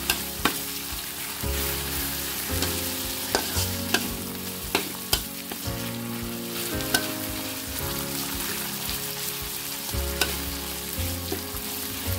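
Chicken frying in hot oil with sambal belacan, sizzling steadily, while a spatula is stirred through the pan with sharp knocks against it every second or so.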